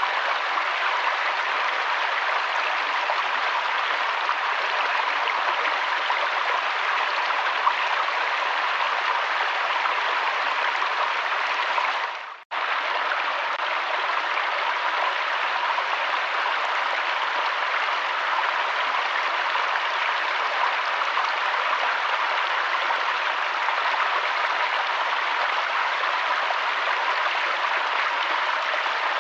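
River water flowing in a steady rush, with a brief drop-out about twelve seconds in where the sound cuts almost to silence for a moment and then resumes.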